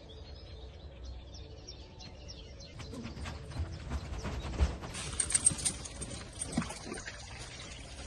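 Small birds chirping over a low steady rumble, with a run of clicks and rustles through the middle.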